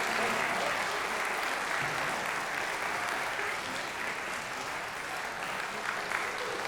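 Audience applauding, easing off slightly.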